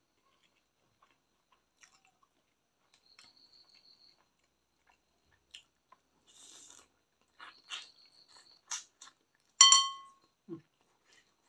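Close-up eating sounds from chewing and biting chicken with rice taken by hand: scattered soft clicks and wet smacks, growing busier in the second half. Near the end comes one sharp click with a brief ring, the loudest sound.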